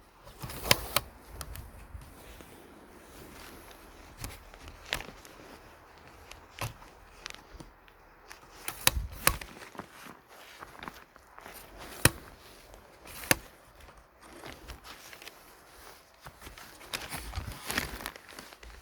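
Footsteps with irregular sharp clicks and knocks, the loudest about a second in and near the middle.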